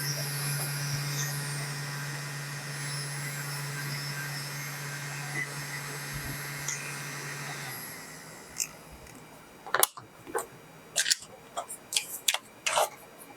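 Small fan motor of a mini air conditioner running with a steady hum and airflow noise. It stops about eight seconds in and is followed by a series of sharp clicks and knocks.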